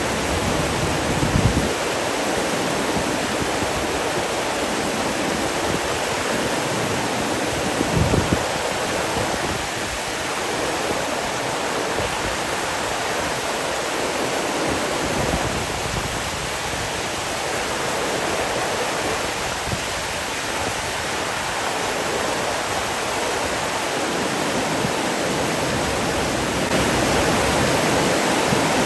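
Water rushing steadily, like a waterfall or fast stream, as an even hiss-like rush with no break. Two brief low bumps come through, one about a second and a half in and one about eight seconds in.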